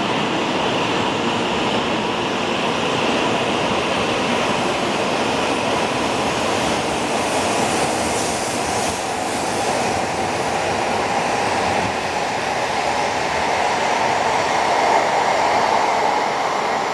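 E6 series Komachi Shinkansen train pulling out along a station platform: a steady rush of rolling and running noise as the cars slide past, a little louder near the end.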